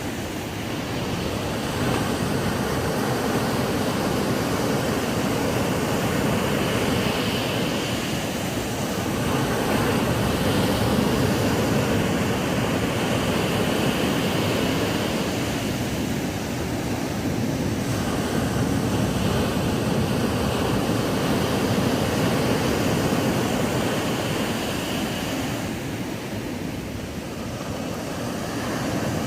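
Ocean waves breaking and washing up a sandy beach in a continuous surf roar that swells and eases every several seconds.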